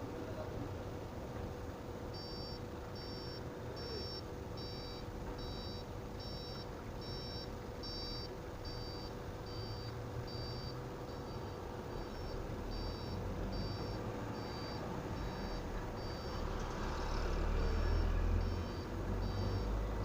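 Vehicle reversing alarm beeping steadily, a little faster than once a second, over a low engine rumble that grows louder near the end.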